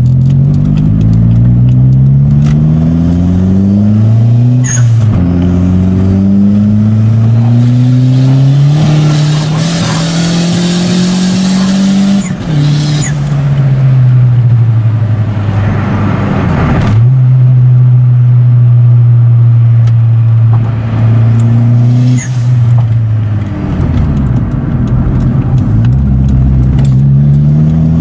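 Toyota Starlet Glanza's 4E-FTE 1.3-litre turbocharged four-cylinder engine, heard from inside the cabin, pulling hard through two gears with rising revs. The revs then fall off as the driver lifts, hold steady at cruise, and climb again near the end. Short bursts of turbo blow-off and screamer-pipe noise come at the shifts and lift-offs, and there is a hiss of turbo and wastegate noise under boost.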